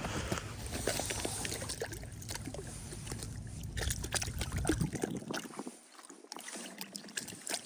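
Water sloshing and trickling at an ice-fishing hole as a large fish is brought up and handled, with irregular small knocks and clicks. A low rumble underneath stops about five seconds in.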